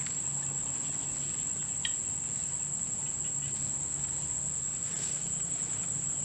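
Crickets trilling in a steady, unbroken high-pitched chorus, with a faint low drone underneath and one short chirp about two seconds in.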